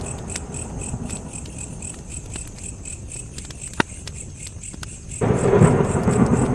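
Campfire burning with a low crackle and one sharp pop near the middle, under crickets chirping in an even pulse of about three a second. A louder low rumble starts abruptly about five seconds in.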